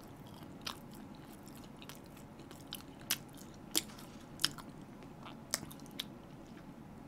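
A person chewing a toast sandwich close to the microphone: faint, irregular soft clicks and smacks of the mouth, about one or two a second.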